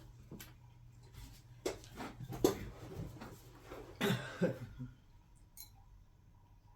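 Hands handling craft pieces: a few light knocks and rustles, then a short noisy burst about four seconds in.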